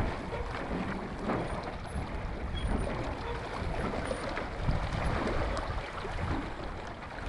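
Wind buffeting the microphone: a rough, uneven rumble that rises and falls in strength.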